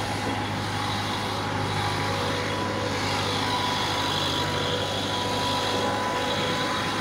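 A motor vehicle's engine running steadily at idle, a constant low hum with a faint steady whine above it.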